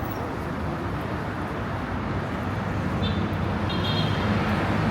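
Busy city street traffic: a steady rumble of passing cars and other vehicles, growing a little louder near the end.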